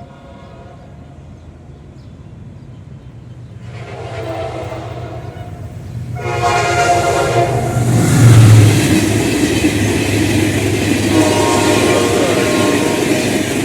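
General Electric diesel locomotive approaching and sounding two long horn blasts, then passing close with the loud rush of its engine and the wheels and coaches on the rails, the engine peaking about eight seconds in. A further, fainter horn blast sounds near the end.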